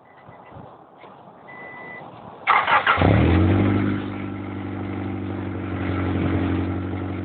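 1994 Acura Integra engine starting through an RS-type aftermarket muffler. About two and a half seconds in, the starter cranks briefly and the engine catches with a flare of revs, then settles within a second into a steady idle.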